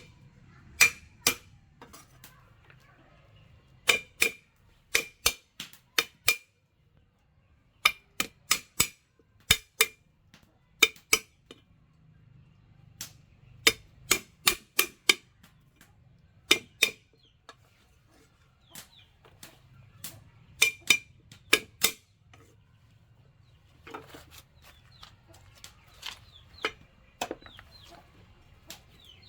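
Series of sharp knocking strikes in irregular runs of two to five, with faint chicken clucking later on.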